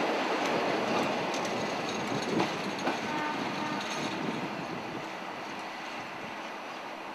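V/Line N-class-hauled passenger train's carriages rolling along broad-gauge track, steel wheels rumbling and clacking over the rail joints, with a couple of louder knocks a few seconds in. The sound fades steadily as the train draws away.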